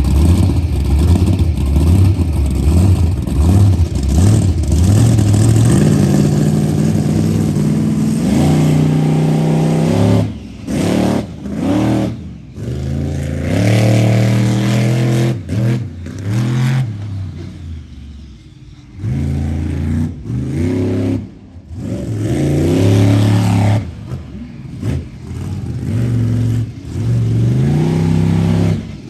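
Monster truck engine revving hard. Its pitch climbs in steps through the first third, then comes a run of sharp throttle bursts that cut off and pick up again, with a short lull just past the middle.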